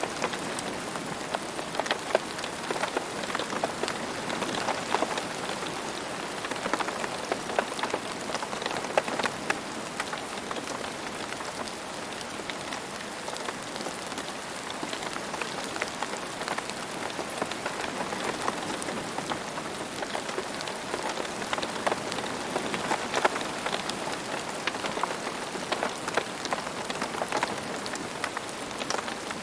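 Steady rain falling, a dense patter of countless drops striking a surface.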